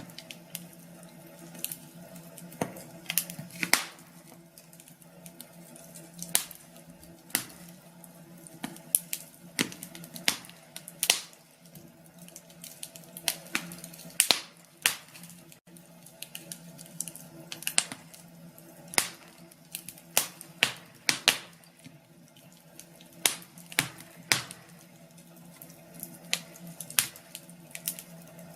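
Wood fire crackling in a fireplace: irregular sharp pops and snaps, several a second at times, over a steady low hiss and hum of the burning logs.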